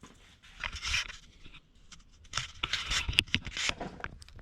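Scattered scraping and light clicking, as of things being handled; the engine is no longer running.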